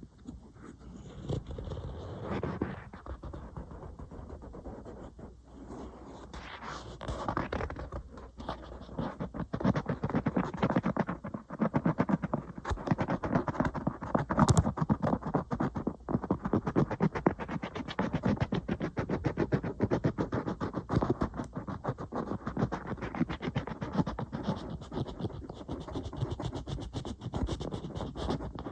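An iPad being scratched, in quick, dense strokes. It is softer and sparser at first, then about eight seconds in it turns into a fast, busy run that stays louder to the end.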